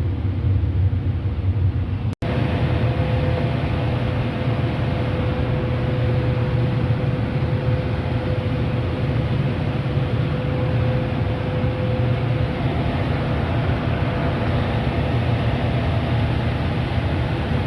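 Packaged air-conditioning unit running: a steady low hum under rushing air, with a steady whine added after a brief cut-out about two seconds in.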